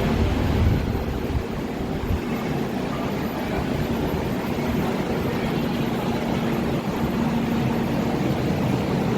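A train running, a steady rumbling noise with a low hum in it.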